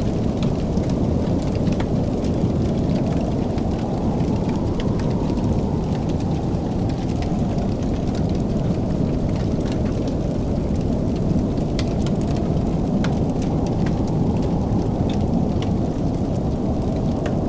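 Fireplace fire crackling, with scattered sharp pops and snaps over a steady low rumble.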